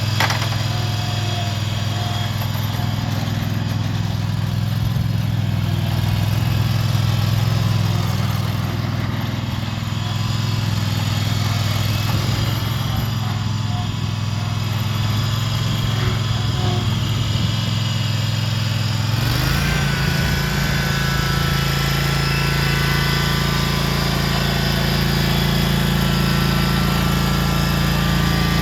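Gasoline engine of a SCAG V-Ride II stand-on zero-turn mower running steadily. About two-thirds of the way through the engine note changes, and a short rising whine settles into a steady higher tone on top of the engine.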